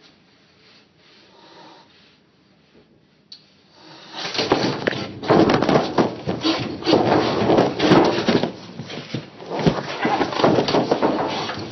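A cat scuffling and scratching hard, a loud jumble of rubbing, scraping and sharp clicks that starts suddenly about four seconds in after faint rustling.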